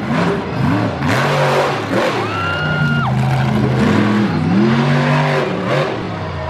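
Monster truck engine revving hard, its pitch climbing and dropping again and again as the driver works the throttle, with a brief high steady whine a couple of seconds in.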